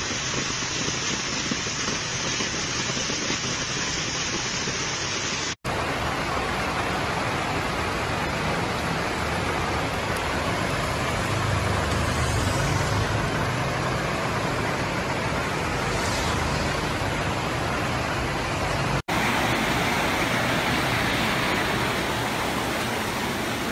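Steady rushing noise of heavy rain and floodwater, broken twice by abrupt cuts, about five seconds in and about nineteen seconds in; after the second cut the noise is brighter and hissier.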